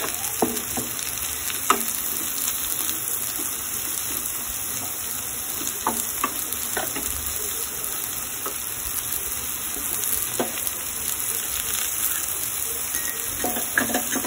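Chopped vegetables sizzling steadily in hot oil in a pan while being stir-fried for a spring roll stuffing, with a few light ticks of a cooking utensil against the pan.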